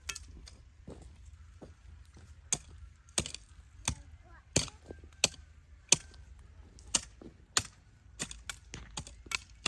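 A series of sharp knocks or strikes, roughly one and a half a second, coming faster near the end.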